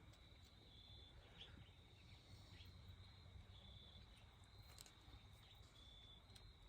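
Near silence with faint insects, crickets or similar, a thin steady high buzz with short chirps now and then, and a couple of faint clicks.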